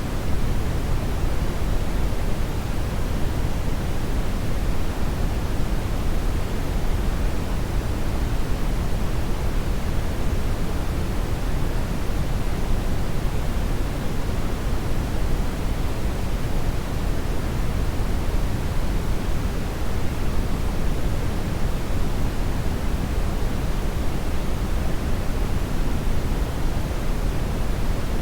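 Hair dryer running steadily: a continuous, even rush of air with no changes, heaviest in the low end.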